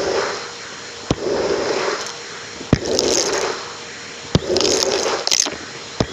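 Numatic James vacuum cleaner heard close up through a microphone on the machine, its tool worked back and forth in even strokes. A sharp knock about every 1.6 seconds is followed each time by a rush of sucking and scraping noise.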